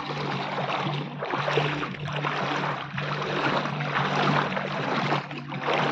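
A motor drones steadily at a low, even pitch under the surging, splashing rush of floodwater.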